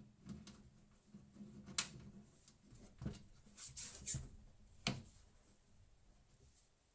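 Handling noises: a few sharp clicks and light knocks, several of them close together about four seconds in, over a faint low hum.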